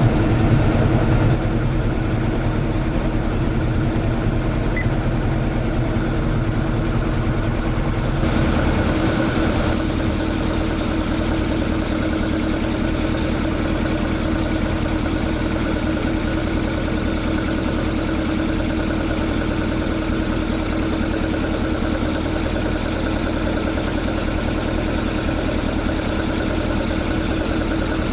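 AE86's swapped-in AE101 four-cylinder engine idling steadily, its tone shifting slightly about 8 seconds in.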